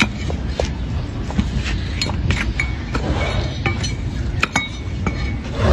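Hoof-trimming tools working a donkey's hoof: scattered sharp clicks and light metallic clinks, a few with a brief ringing note, over a steady low rumble.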